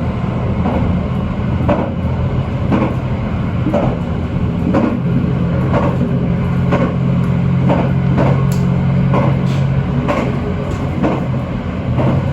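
JR Shikoku N2000 series diesel railcar running along the line, heard on board. A steady diesel engine hum runs under regular clacks of the wheels over rail joints, about one a second.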